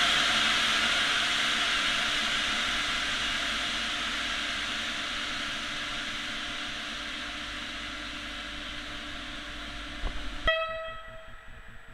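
A steady air hiss at a railway platform, slowly fading, cuts off abruptly about ten and a half seconds in; a short locomotive horn note follows just after and dies away.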